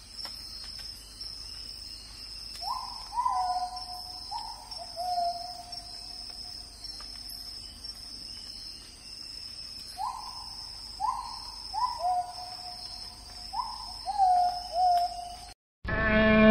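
Hooting bird calls come in two runs of short notes, each note sliding down in pitch, over a steady high-pitched insect trill. Right at the end the ambience cuts off and a loud, deep camel groan begins.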